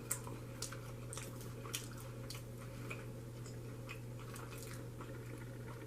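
Quiet close-up chewing with scattered small wet mouth clicks, over a steady low hum.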